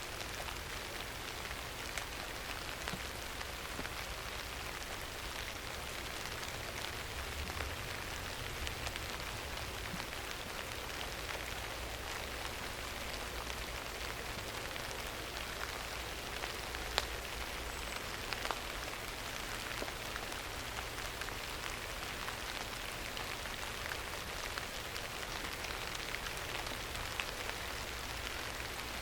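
Steady rain falling, an even hiss flecked with many small drop ticks. There are a couple of sharper taps a little past halfway.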